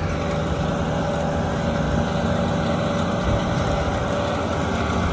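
Tractor engine running steadily as it mows.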